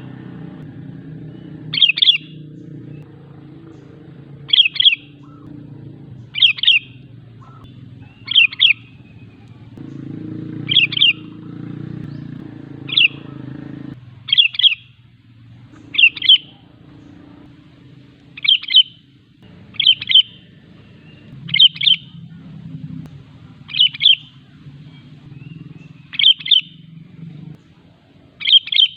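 Sooty-headed bulbul (kutilang) calling in short, loud, chirpy phrases, one about every two seconds, over a steady low hum.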